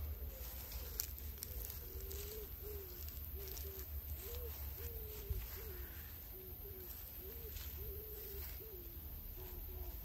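A bird cooing: a long run of soft, low coos, each note gliding up or down, repeated every half second or so.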